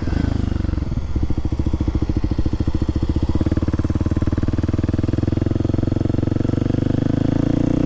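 Kawasaki KLX300SM supermoto's single-cylinder four-stroke engine pulling under way, its pitch rising steadily over the second half as the bike speeds up.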